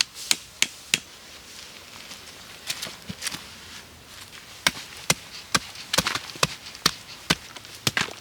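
Wood being chopped with a hand tool: sharp strikes, three quick ones about a third of a second apart at the start, then blows roughly every half second through the second half.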